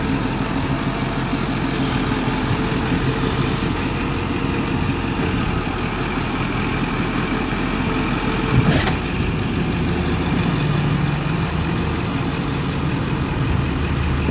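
1999 Ford F450 crane truck's engine idling steadily, with a single short click or knock about nine seconds in.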